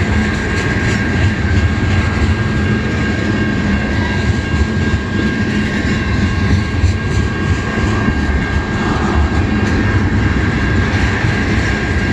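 Freight train of tank cars rolling steadily past: a continuous rumble of steel wheels on rail, with a thin steady high ring above it.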